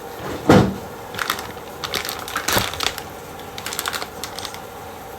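Kitchen items being handled: a knock about half a second in, then scattered light clicks and rattles.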